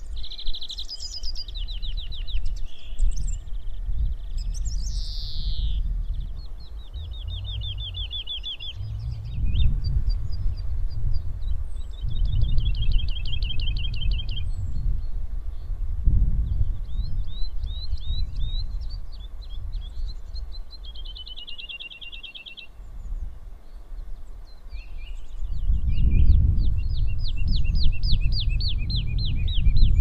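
A small songbird calling in high, rapid trills of ringing notes. Each trill lasts a second or two, and they come again and again with short gaps. A low rumble runs underneath.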